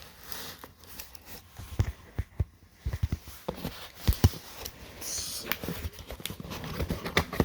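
Handling noise from unwrapping a graded card from its packaging: a string of irregular knocks and taps, with some rustling of the wrapping.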